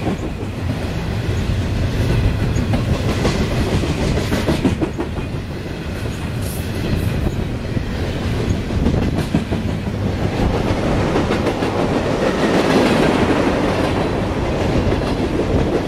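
Long freight train's cars rolling steadily past, their wheels clicking rhythmically over the rail joints.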